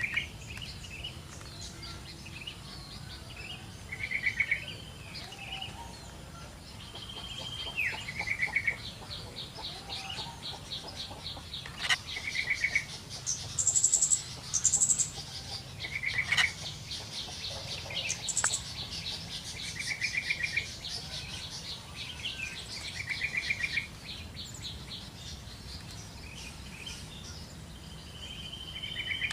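Yellow-vented bulbul calling: short, bubbly, gurgling phrases repeated every few seconds. Through the middle a rapid, even, ticking trill runs for about fifteen seconds, with a few higher, sharper notes near its peak.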